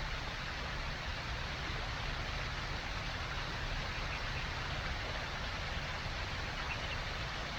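Steady rushing noise with no distinct events, unchanging throughout.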